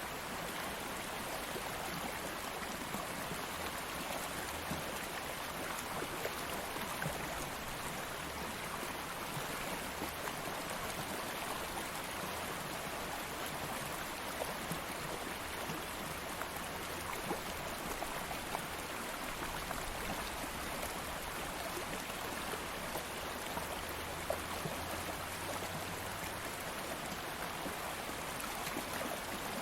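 Stream of water flowing steadily over rocks, an even rush with small splashes and ripples.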